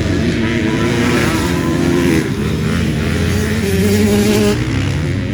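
Several motocross bikes' engines running at once, revving up and down as they race, their pitches rising and falling over one another.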